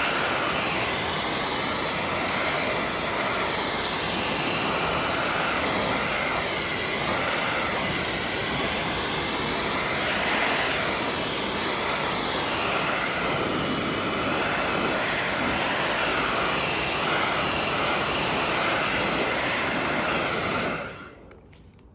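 Hair dryer running steadily, blowing on a polyresin statue, then switched off near the end.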